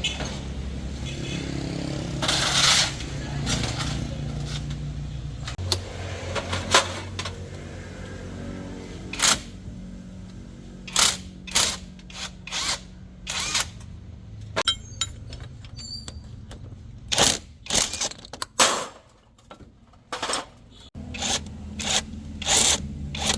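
A motor runs with a steady low hum that shifts in pitch about six seconds in and fades near the end before returning. Over it come many sharp metal clanks and knocks of tools being handled.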